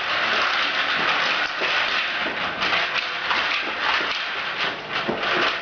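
Toddler's pull-along toy helicopter rattling and clacking as it is dragged across a hard floor, a steady clatter with many quick uneven knocks.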